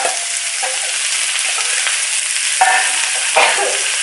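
Diced pork belly sizzling as it drops into hot oil in an aluminium wok, a loud steady hiss. A few clinks and scrapes of a metal spoon against the bowl and wok, the clearest a little after two and a half seconds and around three and a half seconds in.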